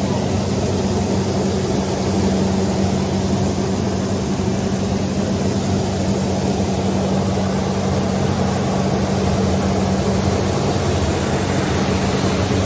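Six-roll wood sanding machine running: a steady motor hum under an even rushing noise from the spinning sanding rolls.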